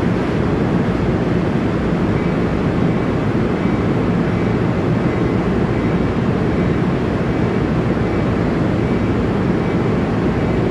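NJ Transit Comet IV commuter coaches rolling slowly past as the train pulls out: a steady, loud low rumble of the moving cars. A faint, broken high tone runs over it from about two seconds in.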